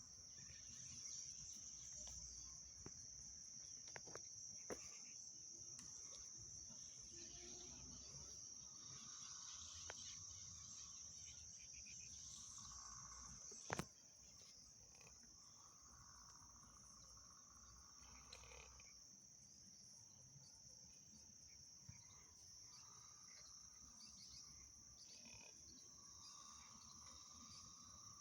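Faint, steady high-pitched insect chorus trilling throughout, with one sharp click about halfway through.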